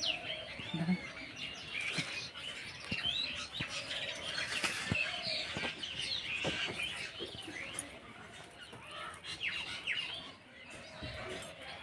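Small birds chirping and twittering, many short high calls overlapping throughout, with a few faint clicks among them.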